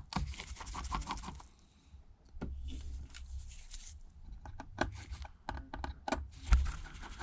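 Small, irregular clicks, taps and scrapes of a precision screwdriver taking tiny screws out of a metal plate inside an iPad Pro.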